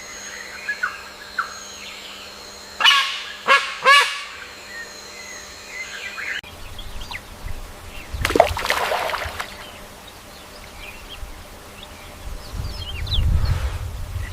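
Three loud bird calls in quick succession about three seconds in. After an abrupt cut, a short noisy burst follows near the middle and a low rumble near the end.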